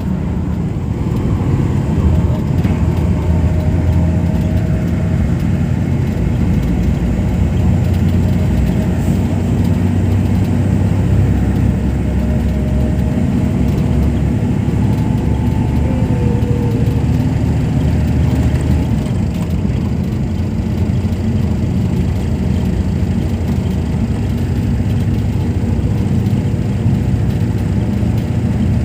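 A steady, loud low rumble, with a few faint short tones above it now and then.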